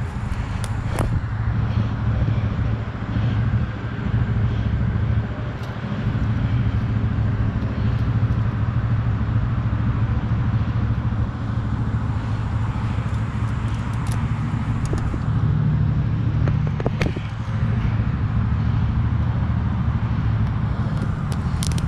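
Quad (ATV) engine idling steadily, with a few sharp clicks scattered through.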